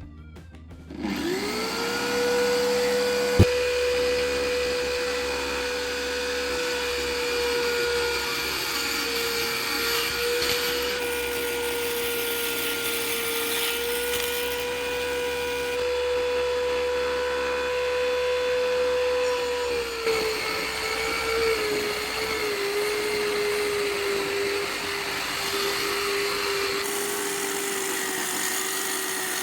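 Electric drill driving a homemade table saw's 5-inch circular saw blade. It spins up about a second in to a steady high whine, with a sharp click a few seconds later. About twenty seconds in, the pitch drops a little and wavers before settling.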